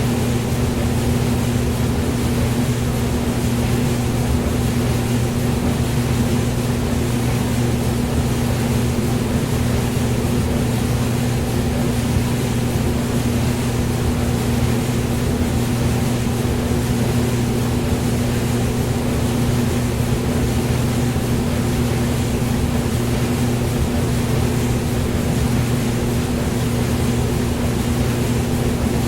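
Hair dryer running steadily: a low motor hum under an even airy hiss, with no change in speed or level.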